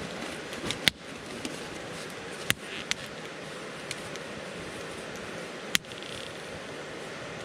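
Wood campfire burning with a steady hiss and crackle, broken by four sharp pops; the loudest come about a second in and near six seconds.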